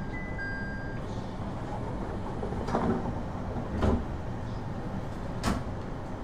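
The steady low hum of a stopped IGR7000-series electric train heard from inside. An electronic two-tone chime stops about a second in, and three clunks follow, typical of door or interior fittings.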